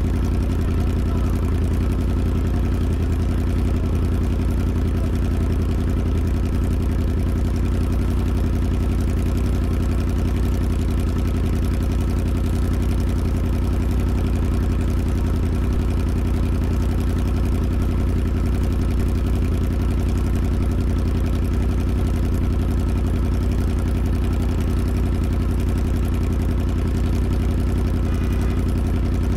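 Motorcycle engine running steadily at an even pitch, with no revving or change in speed.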